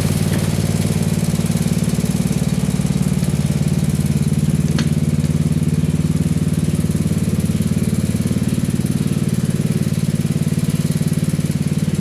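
An engine running steadily at idle, with an even, unchanging note and no revving.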